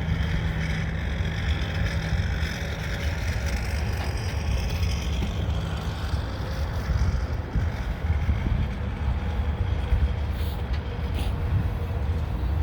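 Loaded freight cars rolling slowly past on the rails: a steady low rumble of wheels on track, with a faint steady hum for about the first half and a few light clicks near the end.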